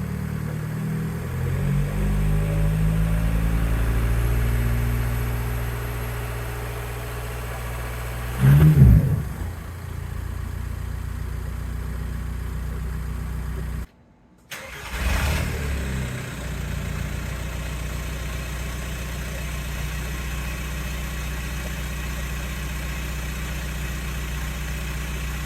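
Volkswagen Jetta TDI's 1.9-litre four-cylinder turbodiesel running through a home-welded exhaust that leaks badly, idling with a swell early on and two short loud revs, near the 9- and 15-second marks. The sound drops out briefly just before the second rev, then settles back to a steady idle.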